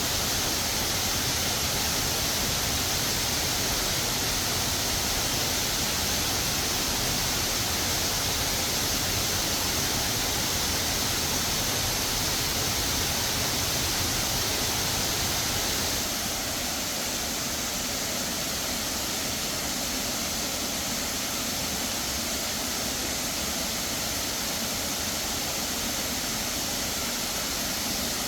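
Steady rushing of a forest waterfall, falling water with no pauses; it becomes slightly quieter about sixteen seconds in.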